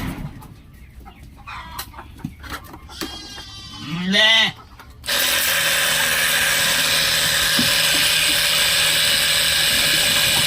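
A short farm-animal call, rising then falling in pitch, about four seconds in. Then a steady mechanical hum and hiss starts suddenly and runs on unchanged.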